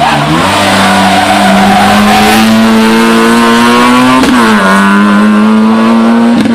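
Rally car engine at full throttle, its pitch climbing steadily and dropping sharply at an upshift about four seconds in, then climbing again to another upshift at the end.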